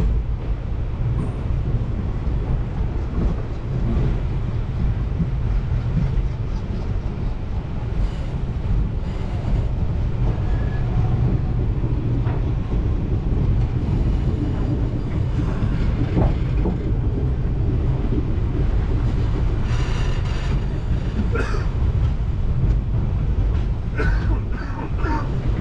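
Indian Railways express train running, heard from inside a coach: a steady, loud low rumble of wheels and wind, with a few sharper clicks and knocks now and then.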